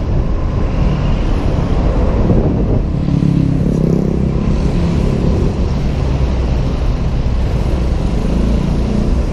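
Honda PCX 125 scooter engine running under way in city traffic, a steady drone over heavy low rumble and road noise, heard from the rider's helmet.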